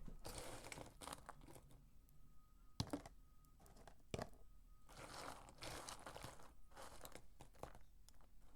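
Dry soap peelings being crumbled and crunched close up: crackly, grainy rustling in two spells, with a couple of sharp clicks in between.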